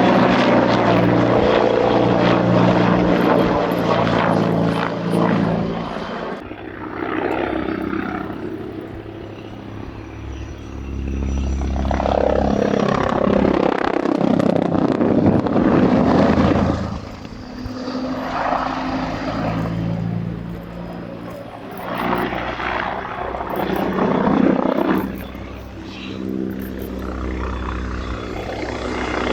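AH-129D Mangusta attack helicopter's rotor and turbine engines: a steady, low, layered drone that swells and fades several times as the helicopter manoeuvres, loudest about halfway through and again near the end.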